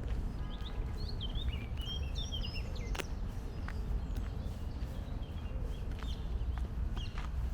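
Songbirds chirping and warbling over a steady low outdoor rumble, with the soft steps of someone walking on a park path. There is a sharp click about three seconds in.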